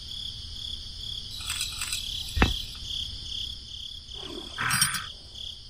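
Steady, pulsing insect chirping, with a single sharp click about two and a half seconds in and a brief scraping noise near the end.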